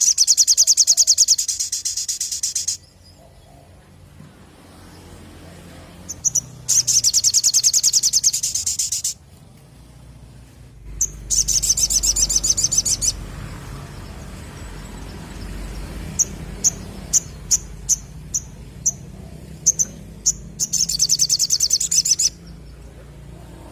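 A little spiderhunter (sogok ontong) singing in long, fast trills of rapidly repeated high notes, four of them, each lasting about two seconds. Between the third and fourth trills it gives a string of short single chips, roughly two a second.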